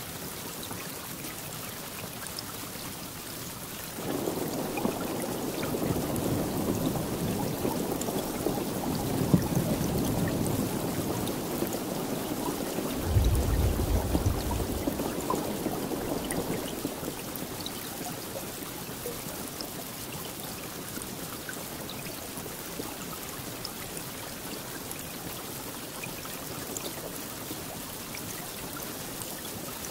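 Steady rainfall with a long roll of thunder that comes in suddenly about four seconds in, swells to a deep boom about thirteen seconds in and dies away a few seconds later, leaving only the rain.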